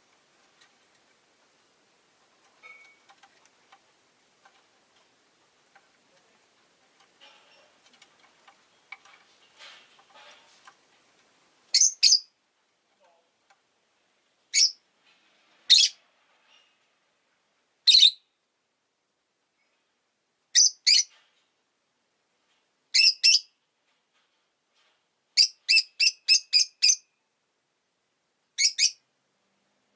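Rosy-faced lovebird giving loud, short, high-pitched chirps, singly and in pairs, with a quick run of about six near the end. For the first ten seconds or so there are only faint scattered ticks and rustles.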